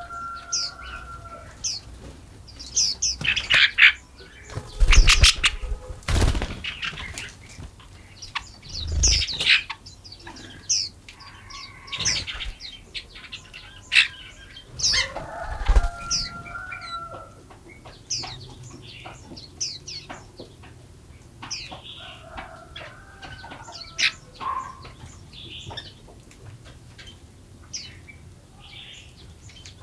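Forest birds chirping and calling, many short high chirps overlapping throughout, with a lower drawn-out call near the start and again around the middle. Several loud, brief bursts of noise stand out over the birdsong, about 3, 5, 6, 9 and 16 seconds in.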